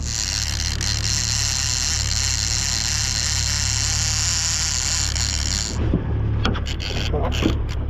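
A fishing reel buzzing steadily as line pulls off it, over the low hum of the boat's outboard motor. The buzz cuts off suddenly about six seconds in, followed by a run of short clicks.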